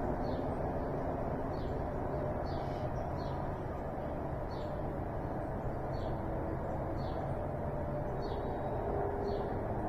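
A bird repeating a single short, high, downslurred note about once a second, over a steady low background rumble and hiss.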